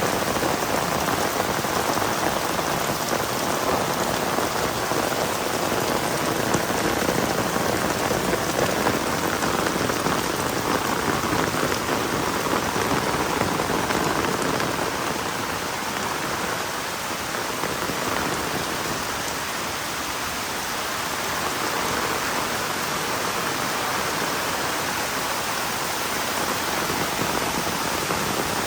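Heavy rain falling steadily on the ground and nearby surfaces, a dense even hiss that eases a little in the middle before building again.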